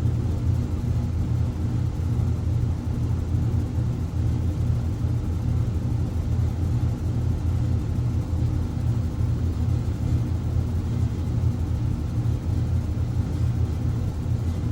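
Electric compressor motor running with a steady, unchanging low hum.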